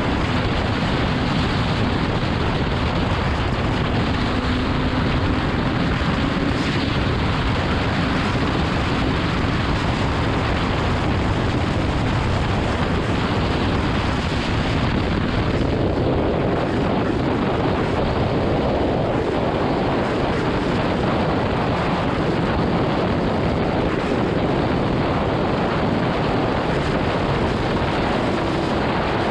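Motorcycle riding at speed: a steady rush of wind over the microphone with the engine's note faintly underneath, its pitch stepping up about halfway through.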